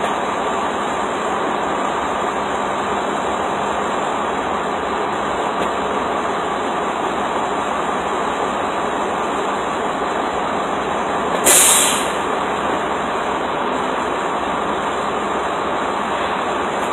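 Steady vehicle noise, with one short, loud hiss about eleven and a half seconds in.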